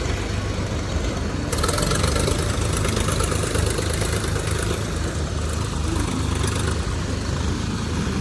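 Heavy diesel engine running steadily at a low rumble. A hiss rides over it from about a second and a half in until about seven seconds.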